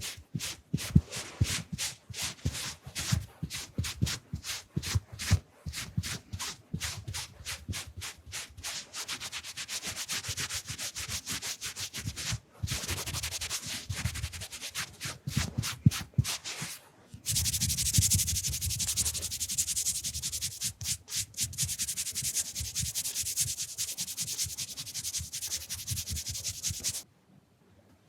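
Wiping and rubbing strokes close to the microphone, imitating a face being wiped clean. They begin as quick separate strokes, two or three a second, then run together into continuous rubbing that gets louder about two-thirds of the way through and stops shortly before the end.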